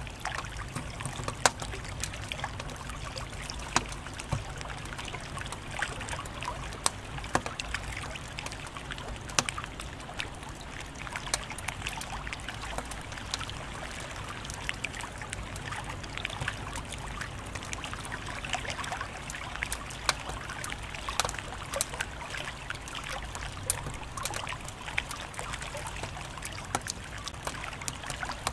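Wood fire crackling: irregular sharp pops and snaps, several a second, over a steady hiss.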